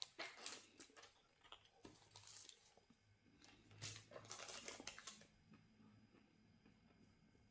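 Faint chewing of crispy breadcrumbed chicken and cauliflower goujons, with crunches in short bouts just after the start, around two seconds in and again around four to five seconds in, then softer chewing near the end.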